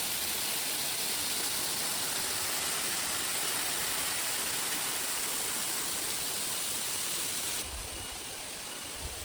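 Heavy rain pouring down in a dense, steady hiss. Near the end it drops suddenly to a quieter hiss, with a few soft low thumps.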